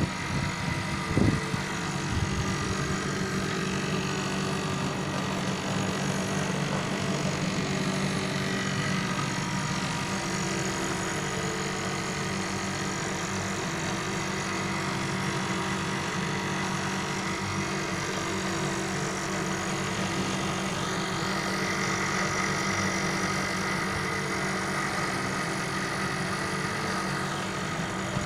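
Air conditioner unit running with a steady mechanical hum and a faint whine, with one short knock about a second in.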